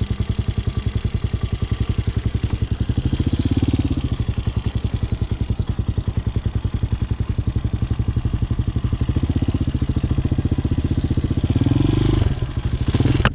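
Motorcycle engine running at low speed in first gear, pulsing evenly, with the revs swelling slightly about four seconds in and again near the end.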